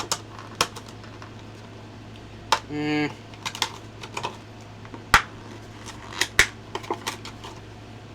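Small items being handled by hand: scattered sharp clicks and taps, the loudest about two and a half, five and six and a half seconds in, with a short hummed vocal sound about three seconds in.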